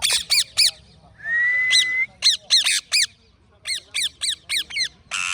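Parrot calling: bursts of short, sharp squawks that sweep down in pitch, with a held whistle about a second in and a harsh rasping call near the end.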